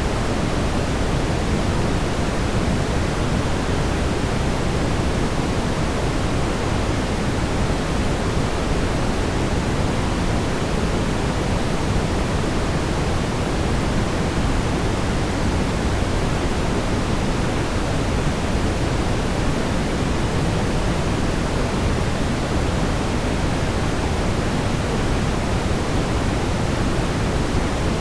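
Brown noise: steady, unchanging noise with its energy weighted toward the low end, a deep even rumble with softer hiss above.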